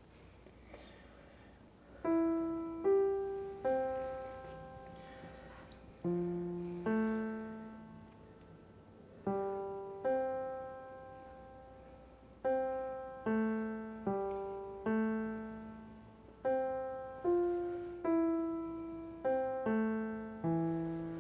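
Solo piano playing a slow, sparse melody, single notes and small chords each struck and left to ring and fade, beginning about two seconds in after a quiet start.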